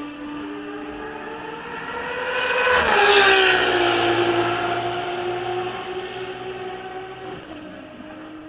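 Ferrari race car engine running at high revs as the car approaches and passes at speed. Its pitch climbs to the loudest point about three seconds in, drops sharply as the car goes by, then fades away.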